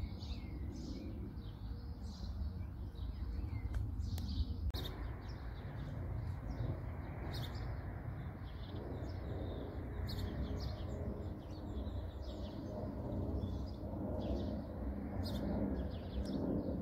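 Small songbirds chirping and calling repeatedly, short high notes scattered throughout, over a steady low rumble of outdoor background noise.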